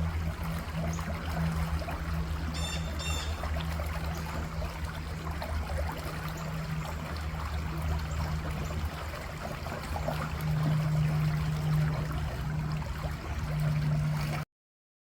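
Outdoor ambience: a steady rushing, trickling noise over a low hum, with a bird chirping twice about three seconds in. The sound cuts off abruptly near the end.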